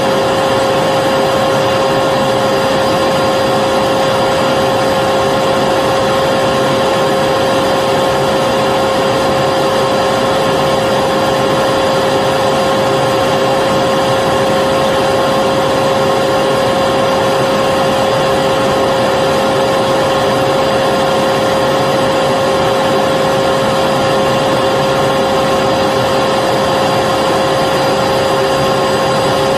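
Vacuum cleaner running continuously: a steady, unchanging motor whine over a dense rushing of air, with no change in speed or load.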